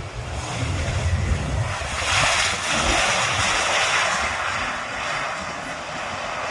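Airliner passing low overhead on its landing approach. The engine noise swells to a loud rush about two seconds in and eases a little towards the end, with a deep rumble underneath at first.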